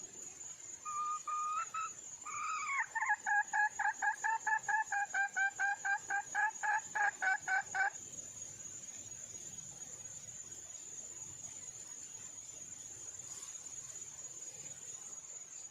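Wild junglefowl hen calling: a short call, then a rapid run of repeated clucking notes, about four a second, for some five seconds, the call a hen gives to draw a cock. A steady high insect trill runs underneath.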